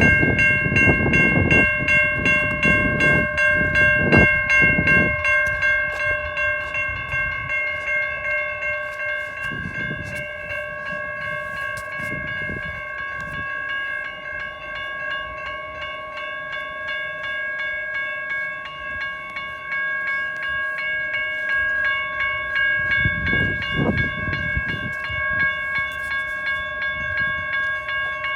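Railroad crossing warning bell ringing continuously with rapid, evenly repeated strikes, set off by a malfunction on the track with no train approaching. Low rumbles come in during the first few seconds and again near the end.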